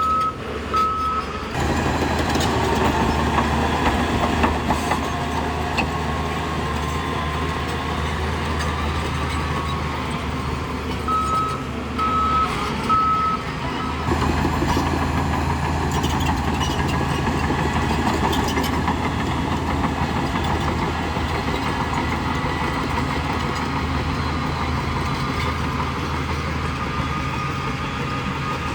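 Heavy diesel engine of earthmoving machinery running steadily, with a backup alarm beeping twice at the start and three times about eleven seconds in.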